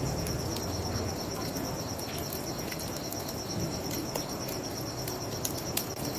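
Crickets chirping in a steady, rapid, even pulsing, with scattered sharp crackles of a wood fire burning.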